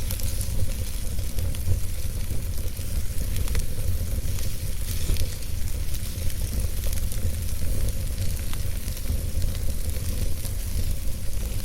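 Wood fire burning in a fireplace: a steady low rumble of the flames with a hiss and frequent small crackles and pops from the logs.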